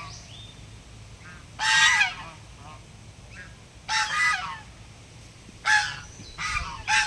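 A flock of waterfowl calling: a series of loud, harsh honks about every one to two seconds, each dipping slightly in pitch, with fainter calls between them.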